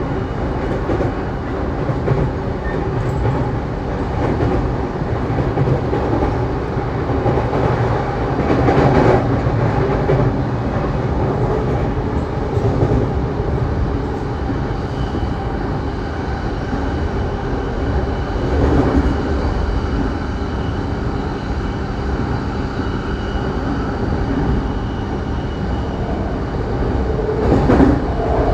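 Running sound of a JR East Saitama Line electric train heard from inside the carriage: a steady rumble of wheels on rail with rail-joint clickety-clack and a faint steady whine. The rumble swells for a few seconds three times.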